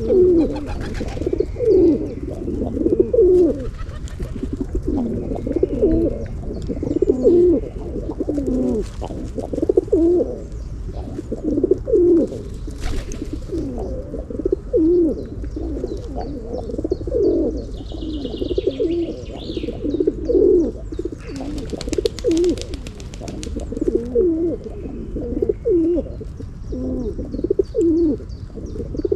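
Pigeons cooing over and over, the low calls following one another without a break, with a few faint higher chirps from another bird and a low steady background rumble.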